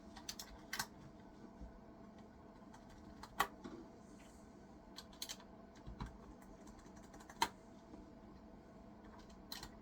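Plastic keycaps being pressed back onto a computer keyboard: scattered sharp clicks and taps at irregular intervals.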